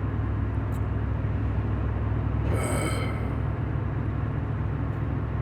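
Steady low drone of a car's engine and tyres heard from inside the cabin while driving, with a brief hiss about two and a half seconds in.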